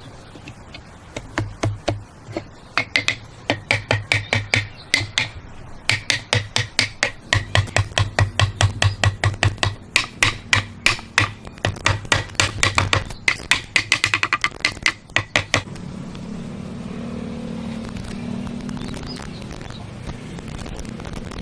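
Fast hammering on wood, about four blows a second, stopping about three quarters of the way through. It gives way to a steady low hum.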